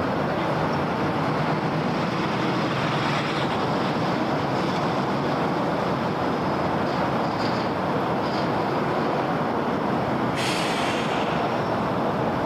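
Steady rumble of city road traffic, with a sudden hiss about ten seconds in that fades away over a second or so.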